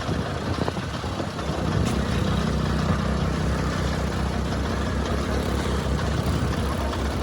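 An engine idling, with an even low pulsing beat that settles in about a second and a half in.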